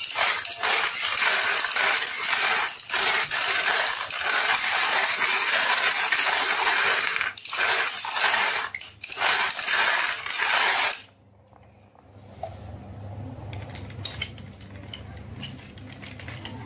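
Many marbles clattering and rattling down a wooden HABA marble run slope. The clatter stops abruptly about 11 seconds in, leaving a faint low hum with a few scattered clicks.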